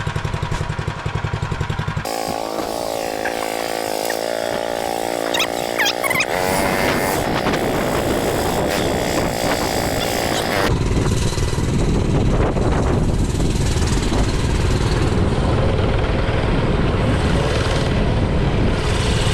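Mini bike's small engine running, first with a fast low pulsing, then at higher revs as the bike is ridden; about ten seconds in the sound turns rougher and noisier.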